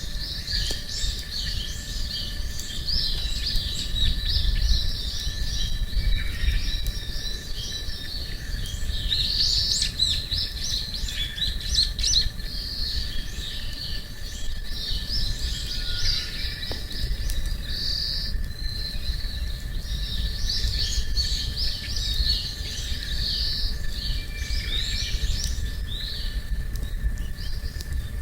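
Many small birds chirping and singing continuously in quick, overlapping calls, over a low steady rumble.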